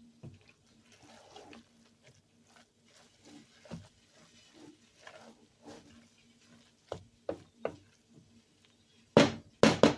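Kitchen handling sounds of pots and utensils: faint scrapes and taps, three sharp clicks about seven seconds in, then a couple of louder knocks near the end.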